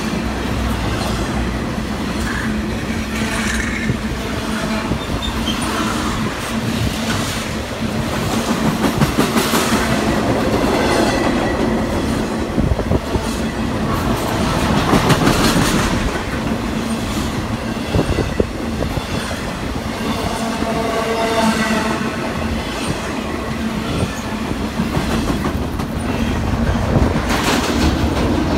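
A train rolling past: steady rumble of the cars with wheels clacking over the rails, and a wheel squeal coming in now and then.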